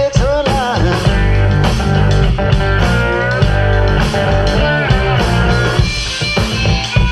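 Rock band music: an electric guitar with bent, wavering notes over bass and drums.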